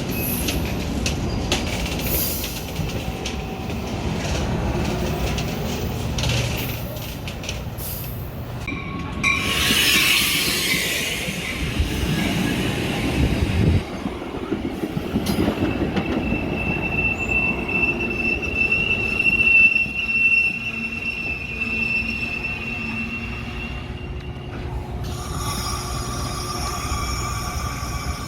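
Metra commuter train running with a steady rumble; about ten seconds in comes a burst of hiss, and from about fifteen seconds a high, steady wheel squeal holds for roughly nine seconds. Near the end, several higher steady tones come in together.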